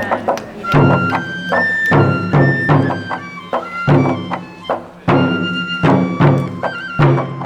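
Traditional Japanese festival music: a high wind instrument plays long held notes over drum strikes that fall about once a second.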